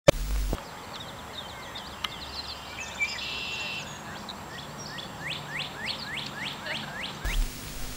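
Birds chirping, with a quick series of short downward-sweeping chirps in the second half. A brief low rumbling noise comes right at the start and again near the end, each starting and stopping abruptly.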